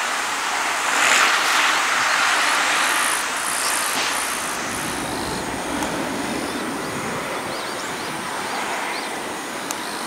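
Steady rumble and rushing of a distant freight train on the line, brighter in the first few seconds and then settling into a lower, fainter rumble.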